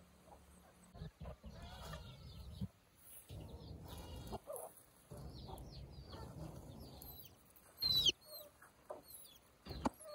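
Chickens clucking, with sharp high chirping calls about eight seconds in, over a low rumbling noise that comes and goes.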